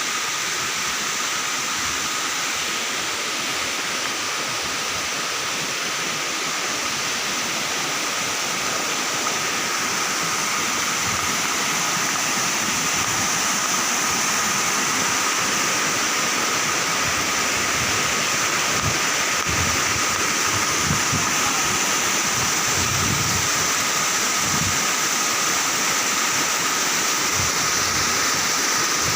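Waterfall: a steady rush of falling water that grows slightly louder toward the end.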